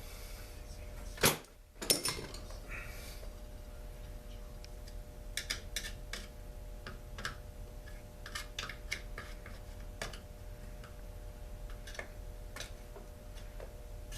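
Tools and small chainsaw parts being handled on a workbench during disassembly: two sharp knocks just over a second in, then scattered light clicks and taps.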